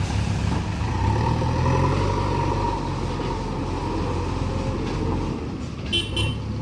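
A heavy diesel machine's engine running steadily, with a short sharp sound near the end.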